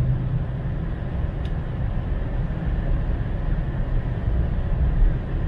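Steady low rumble of road, tyre and engine noise inside the cabin of a 2019 Chevrolet Silverado with the 6.2L V8, running at speed on the track.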